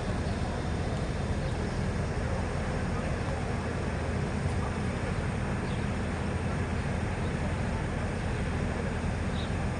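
Steady low rumble of the MT 15411 diesel railcar running, even and unchanging throughout.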